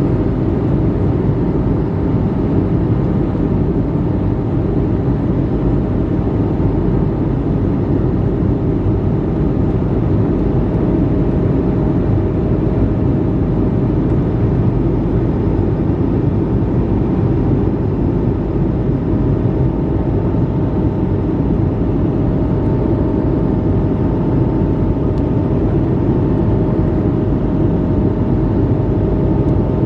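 Steady cabin noise inside an Airbus A220-300: the drone of its Pratt & Whitney PW1500G geared turbofan engines and rushing airflow, with a faint steady hum running through it.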